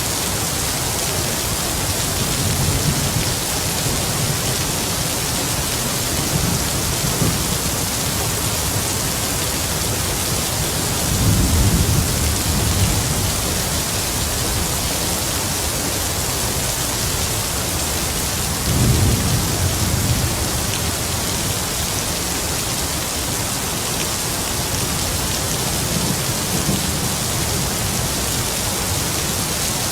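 Heavy rain falling steadily as an even hiss, with distant thunder rumbling low underneath. Two stronger rolls come about a third and two thirds of the way through.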